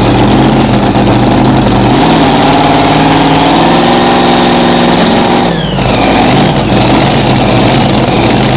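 Loud engine of a competition pulling tractor, running rough and steady. About two seconds in it is revved up, the pitch climbing for a few seconds, then it drops back abruptly past the halfway point and settles again.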